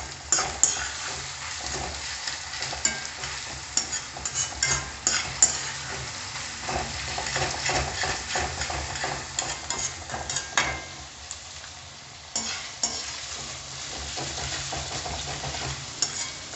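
Sliced onions, green chillies and curry leaves frying in oil in a metal kadai on high flame, sizzling steadily, while a metal spoon stirs them and scrapes and knocks against the pan. The clicks are frequent, with a short lull about eleven seconds in.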